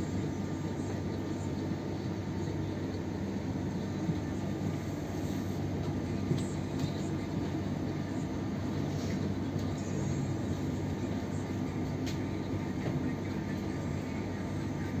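Steady running noise of a moving passenger train heard from inside the carriage, mostly low in pitch, with a few faint clicks.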